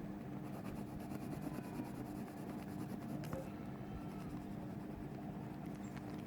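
Faint rubbing and rustling of paper during craft work, over a steady low electrical hum.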